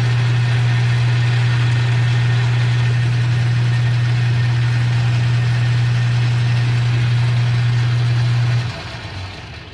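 Metal lathe running steadily while turning a shaft down with a square-pointed cutting tool, a strong low hum with a hiss of cutting over it. Near the end it is switched off and winds down.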